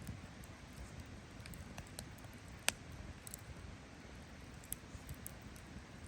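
Wood campfire burning, with sparse crackles and one sharp pop a little before the middle, over a low steady rumble.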